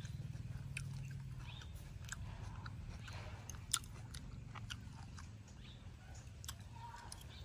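Close mouth sounds of a person chewing stir-fried shrimp and vegetables: irregular soft clicks and crunches, one sharper click about halfway through, over a low steady hum.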